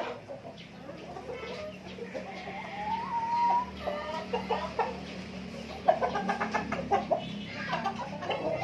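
Native heritage chickens clucking, with a drawn-out call rising in pitch about three seconds in and a run of quick, sharp clucks about six seconds in.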